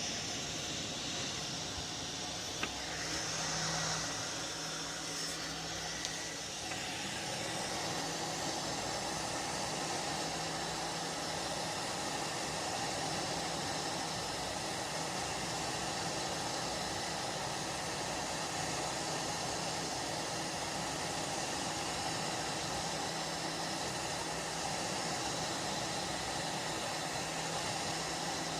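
Steady airy hiss of a small electric blower running, with a couple of faint clicks in the first few seconds and a slight change in its tone about six seconds in.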